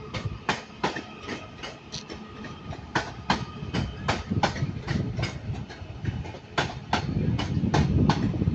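Class 331 electric multiple unit pulling out, its wheels clicking over rail joints and points at about three clicks a second over a low rumble.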